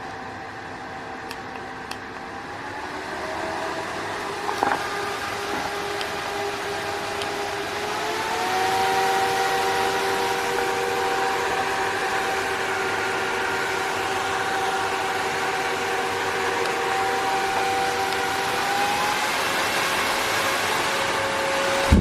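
Small brushless cooling fans for an air-conditioned work jacket running, a steady whine over rushing air. The fan speed steps up about three seconds in and again about nine seconds in, then shifts once more near the end.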